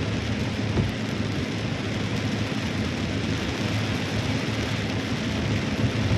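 Heavy rain falling steadily, a dense unbroken hiss over a low rumble.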